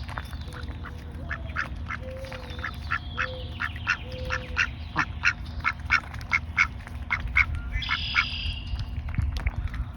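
Male ducks (drakes) calling in a quick series of short, clipped quacks, about two to three a second, over a steady low rumble.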